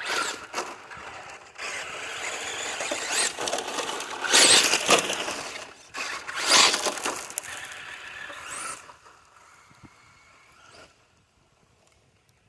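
Electric RC monster truck, a Traxxas Sledge Hammer VXL, driven in hard throttle bursts: the brushless motor whines up and down over the noise of tyres scrabbling on the ground, loudest about four and a half and six and a half seconds in, then fading away near the end.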